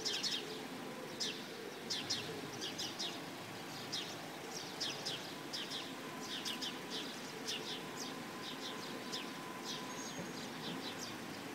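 Small birds chirping in quick runs of short, high notes, over a low steady background noise.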